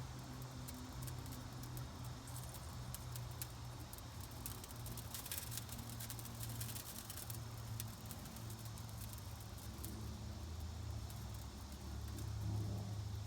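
Burning fire starters crackling faintly, with scattered sharp ticks that cluster about halfway through, over a steady low rumble.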